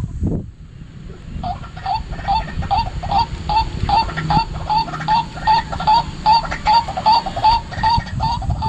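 White-breasted waterhen calling: a harsh note repeated evenly, about three to four times a second, starting about a second and a half in. A low rumble runs underneath.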